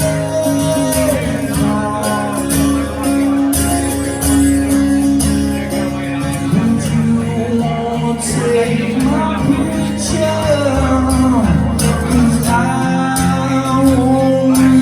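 Live rock song performed by a band: guitar chords with a steady beat under a sung vocal line.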